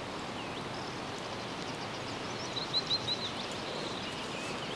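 Steady outdoor hiss with a small bird calling: a faint chirp early, then a quick run of four short high chirps about two and a half seconds in.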